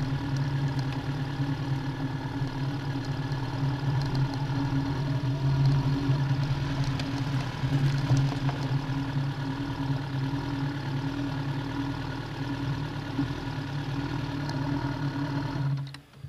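Yamaha FZ6N's 600 cc inline-four running steadily at idle through a Leo Vince aftermarket exhaust as the bike rolls slowly, then switched off near the end.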